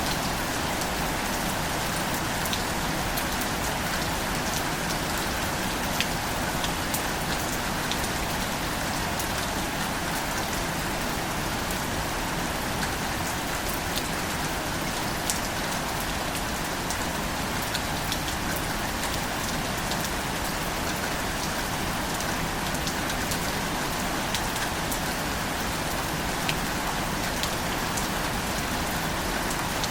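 Steady rainfall: an even hiss, with individual drops ticking here and there.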